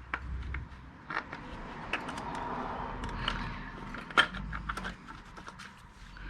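Scattered clicks, knocks and light rattles of hands handling pressure-washer parts and fittings, with a soft hiss about two seconds in and one sharper knock near the middle.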